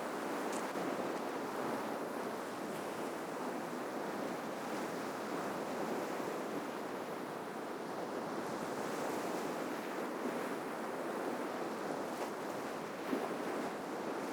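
Ocean surf washing steadily onto the shore, a continuous hiss of breaking waves that gently swells and eases, with one brief sharp tick near the end.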